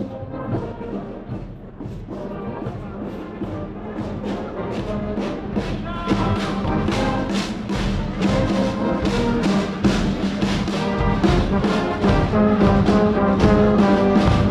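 Brass band music with a steady drum beat, brass instruments holding and changing chords, growing louder.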